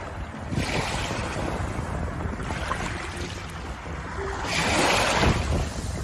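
Ocean waves surging and washing in, a rushing hiss that swells and falls back; the loudest surge comes about five seconds in.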